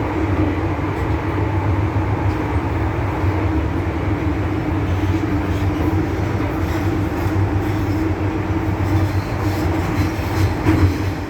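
MTR M-Train electric multiple unit running steadily along the line, with a continuous low rumble of wheels on rail and traction equipment.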